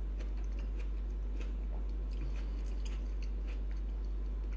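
Faint chewing of raw sliced tomato, with soft scattered mouth clicks, over a steady low hum.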